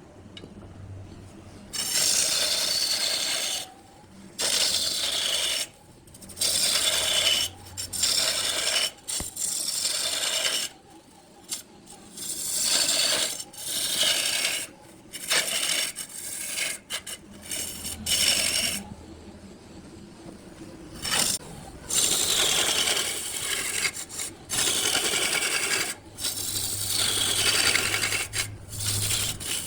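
Wood turning on a lathe: a tool scraping and cutting the spinning wood block in repeated passes of one to two seconds, with short breaks between them, over a low hum at the start and near the end.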